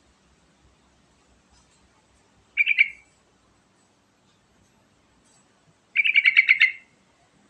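Yellow-vented bulbul (trucukan) singing: a short phrase of quick repeated notes about two and a half seconds in, then a longer phrase of the same quick notes near the end.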